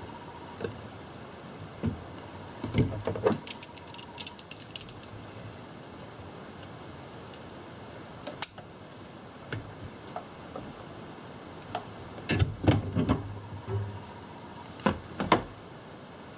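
Intermittent metallic clinks, clicks and rattles of hand tools and small parts being handled, bunched in a flurry about three seconds in and another around twelve seconds, with a few single clicks between.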